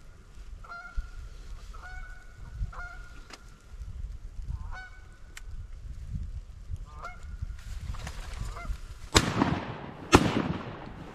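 Geese honking, short calls about a second apart. Near the end, two loud shotgun shots about a second apart ring out.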